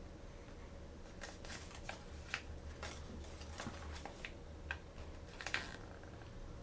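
Hands handling small plastic toys and their packaging: a run of irregular clicks, taps and crinkles from about a second in until near the end, over a steady low hum.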